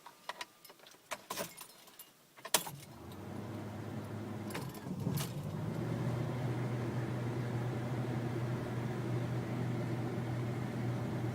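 Car keys clicking and jangling at the ignition, then the car engine starts about two and a half seconds in, catching at once, and settles into a steady idle.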